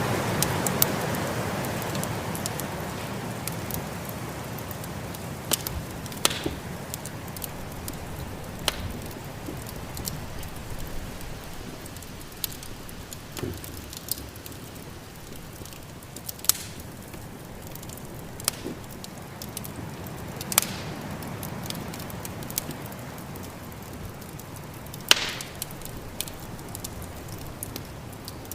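Wood fire in a fireplace crackling, with about ten sharp pops scattered through it, over a steady rush of snowstorm wind that is strongest at the start and then eases.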